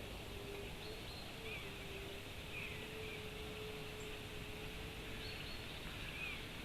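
Faint outdoor ambience: a few scattered short, high bird chirps over a steady background hiss, with a low steady hum that fades out near the end.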